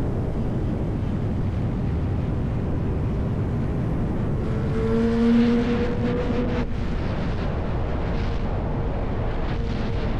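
Sport motorcycle engine and exhaust running under way, with a steady rush of wind and road noise. About halfway through, a pitched engine note swells and rises slightly, then cuts off suddenly.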